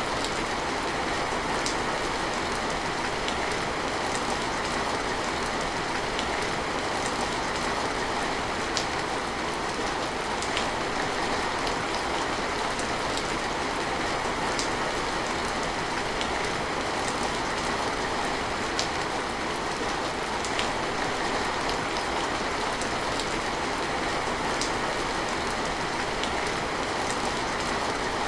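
Steady rain falling, an even hiss with scattered single drops ticking out above it.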